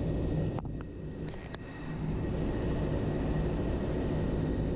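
Steady low vehicle rumble with hiss. A few sharp clicks and a brief dip in level come about half a second to two seconds in.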